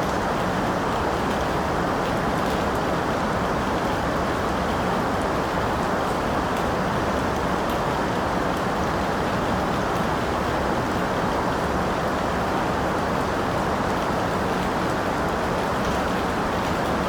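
Steady rain falling, an even, unbroken hiss with a few faint drop ticks.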